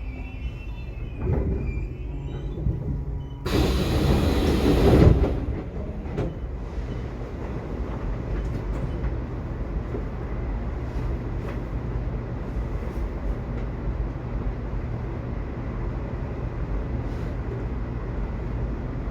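Subway train running, heard as a steady low rumble with a hum. About three and a half seconds in, a loud rush of noise lasts nearly two seconds, then the rumble settles back.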